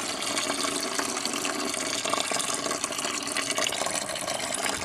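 Coolant running steadily out of a small-block Chevy engine's block drain plug and splashing into a drain pan.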